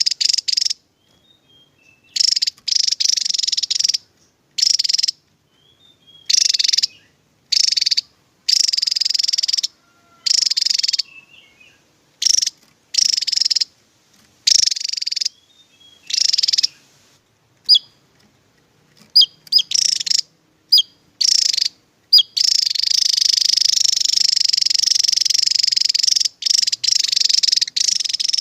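Javan tesia singing: loud, rapid high-pitched trilled phrases that start and stop abruptly, separated by short gaps. A few sharp, quick falling notes come in the middle, and the song runs on without a break over the last several seconds.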